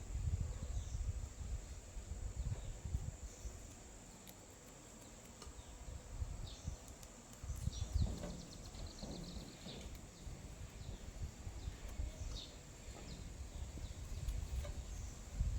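Outdoor background noise: an uneven low rumble with scattered faint high chirps, like small birds or insects.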